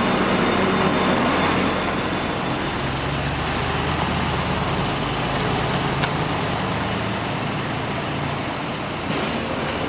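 Diesel engine of farm machinery running steadily under light load, its low note shifting slightly about three seconds in.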